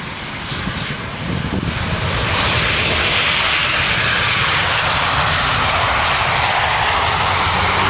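Jet engines of a landing Boeing 737 airliner passing close, a rushing noise that swells about two seconds in and stays loud.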